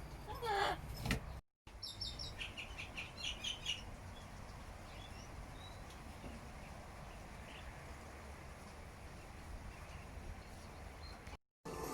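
Small bird chirping: a quick run of high, clear chirps lasting about two seconds. A short call falling in pitch comes just before it, and faint outdoor background follows.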